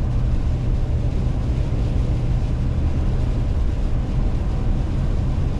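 Steady road and engine noise inside a moving car's cabin: a constant low rumble with an even hiss of tyres and air over it.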